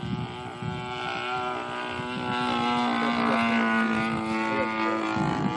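DLE 30 single-cylinder two-stroke gas engine with a Keleo exhaust, running steadily on a radio-controlled P-51 model plane in flight. It grows louder past the middle and eases off slightly near the end.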